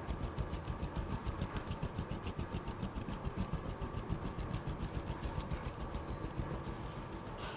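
Rapid, even knocking, about six strokes a second, keeping up the same beat throughout.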